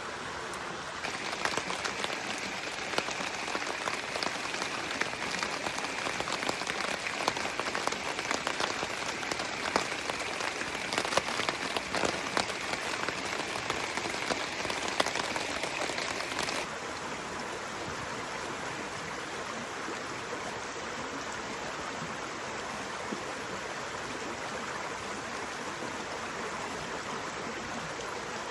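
Rain falling, with a dense patter of drops striking a surface that starts about a second in and cuts off abruptly after about sixteen seconds, leaving a steady rain hiss.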